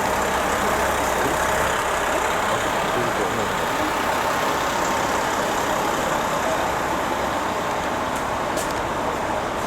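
A stationary train idling at a station platform: a steady engine hum with faint steady tones.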